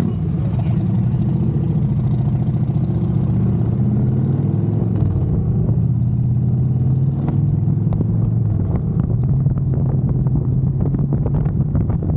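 Motorcycle engine running under way, its pitch rising and falling with the throttle and dipping briefly about seven seconds in. Rapid buffeting on the microphone comes in over the last few seconds.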